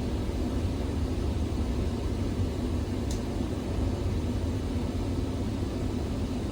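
Steady low rumble inside a ZiU-682G trolleybus cabin, with a brief high squeak falling in pitch about three seconds in.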